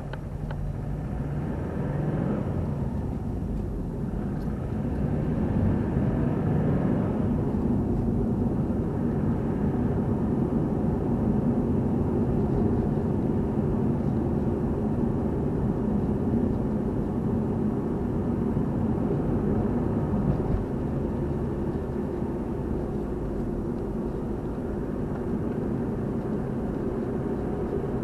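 A car on the move: steady engine and road noise, growing louder over the first few seconds and then holding even.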